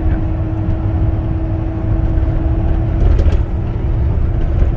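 Ford F450's 6.7-litre Power Stroke V8 diesel and road noise droning steadily inside the cab while the truck cruises in sixth gear. A low rumble carries a steady hum that fades near the end.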